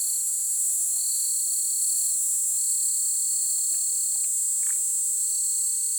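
Insects chirring in a loud, steady high-pitched buzz, with a second, lower chirring that comes and goes in stretches of about a second, and a few faint ticks.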